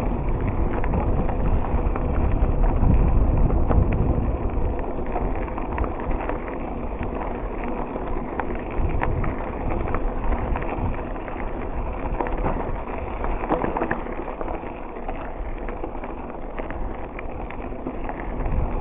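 Riding a bicycle along a rough path: wind buffets the microphone with a low rumble, strongest in the first few seconds. Underneath are tyre noise and many small rattles and clicks from the bike.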